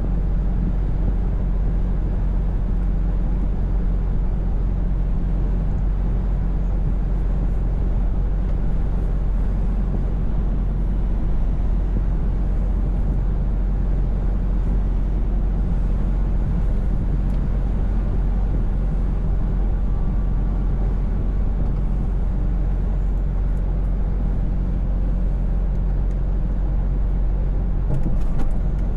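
Scania V8 truck engine running at a steady pace on the road, a constant low drone with tyre and road noise. A few faint clicks near the end.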